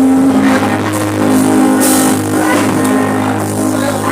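Live church worship music: instruments holding steady sustained chords, with a brief cymbal-like hiss about two seconds in.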